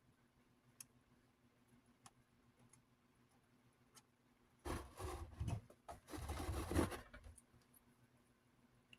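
Protective plastic film being peeled off a fan part in two short stretches of scratchy crackling, with small ticks between, over a faint low hum.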